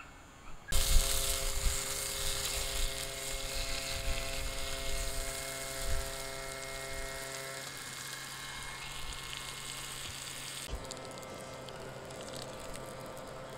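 Sausages sizzling in hot oil in a frying pan. The sizzle starts abruptly about a second in, with a faint steady hum underneath, and drops to a softer sizzle near the end.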